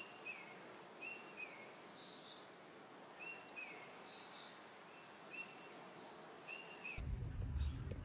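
Songbirds chirping faintly: a short falling whistled note repeated every second or so, with higher chirps over it. A low rumble comes in near the end.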